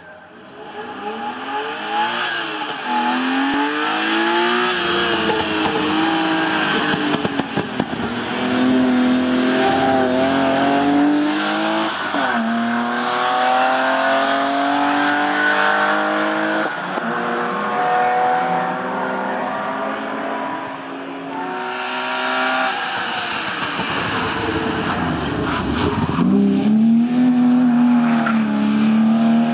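BMW 328's straight-six engine revving hard at racing pace, its pitch climbing and dropping repeatedly with gear changes and lifts. It fades up over the first couple of seconds and dips briefly about twenty seconds in.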